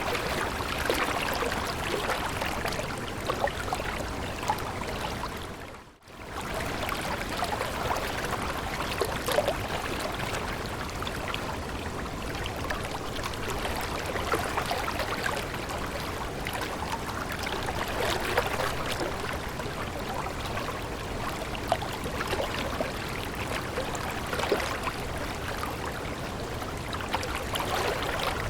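Flowing stream water, a steady splashing and trickling, which briefly fades out and back in about six seconds in.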